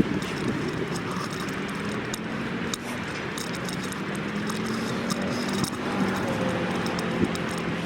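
Steady road traffic noise, with the hum of vehicle engines and tyres passing by.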